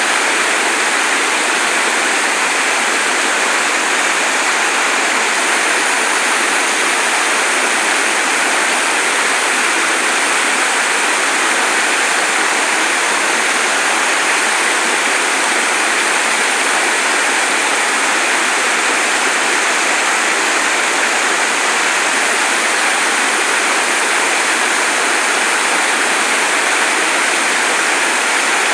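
Rain-swollen mountain stream pouring over a check dam as a waterfall: a steady, unbroken rush of falling water.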